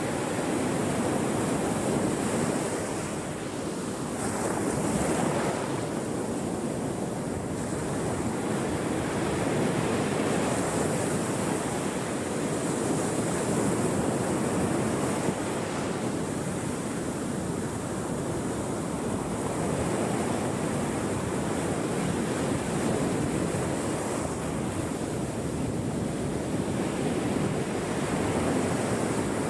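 Ocean waves washing onto a shore, a continuous rushing surf that swells and eases every few seconds.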